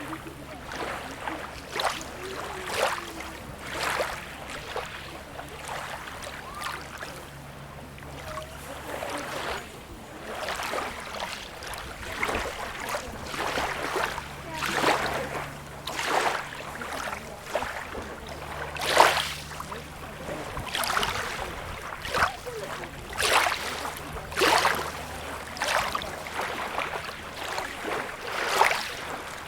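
Small waves lapping and splashing at the water's edge: short splashes come every second or two over a low steady hum.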